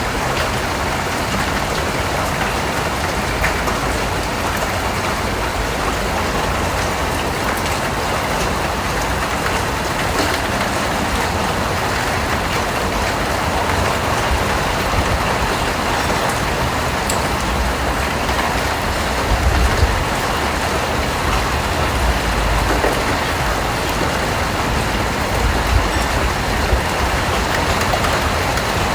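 Steady rain, an even hiss of falling drops, with a low rumble underneath that grows stronger in the second half.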